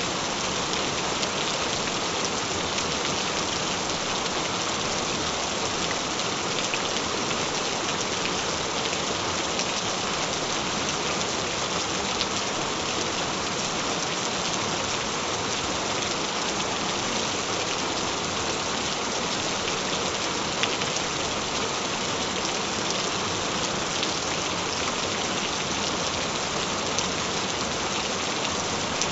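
Steady rain falling: an even hiss with faint individual drop ticks scattered through it, unchanging throughout.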